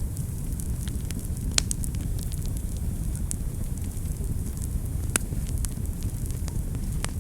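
Wood fire burning in a fireplace: a steady low rumble of flame with scattered sharp crackles and pops, the loudest about one and a half seconds and five seconds in.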